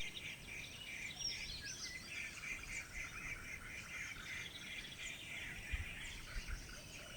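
Faint birdsong: several small birds chirping and calling over a light background hiss.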